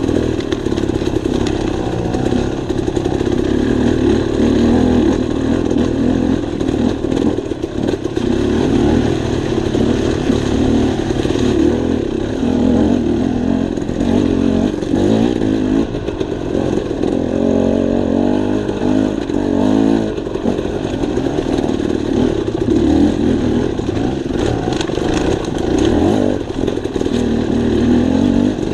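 Dirt bike engine running under load while riding a trail, its revs rising and falling repeatedly with throttle and gear changes.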